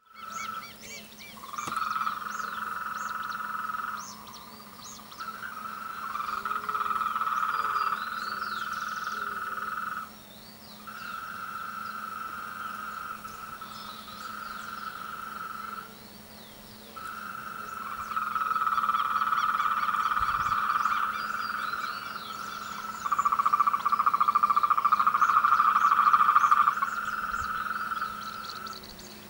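A chorus of frogs calling together in the mating season, a dense trilling that swells and breaks off in bouts of several seconds with short pauses between them. It is loudest in the last bout, a few seconds before the end.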